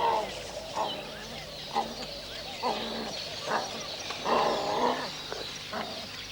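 Ground hornbills giving short low calls, about one a second, with a longer call near the end, over a steady high chirring of savanna insects.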